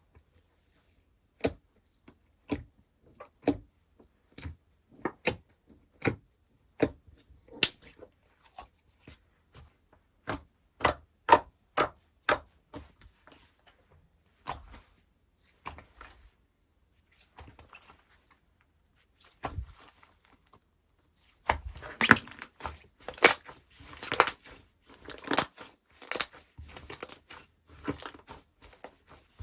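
Slime being squeezed and poked by hand, making a series of sharp clicks and pops about one or two a second, then sparser, then a dense run of crackling clicks in the last third.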